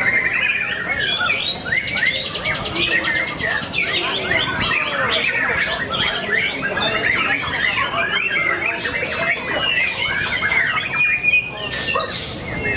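Several caged songbirds singing at once: dense overlapping whistles, chirps and fast trills with no break.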